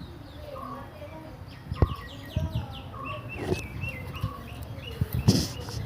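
Birds singing: rapid runs of short, high, falling chirps, with softer lower calls behind them. A few sharp knocks sound over it, about a second and a half apart.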